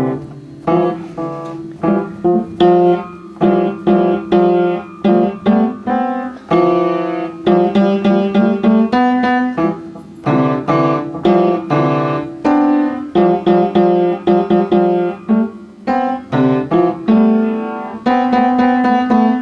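Electric piano or keyboard music: a bouncy run of chords and melody notes, struck in quick succession without a break.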